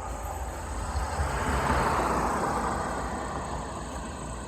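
A car passing on the road, its noise swelling to a peak about two seconds in and then fading away, over a steady high drone of insects.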